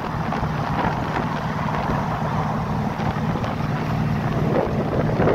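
Hot rod's open engine running steadily at highway cruising speed, with wind rushing over the car and buffeting the microphone.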